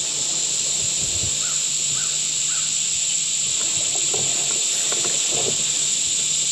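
Steady high-pitched insect chorus of crickets or similar field insects shrilling without a break. About a second and a half in come three short faint calls in a row.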